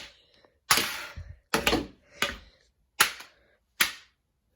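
A game controller being struck hard, about five sharp knocks in under five seconds, each ringing off briefly.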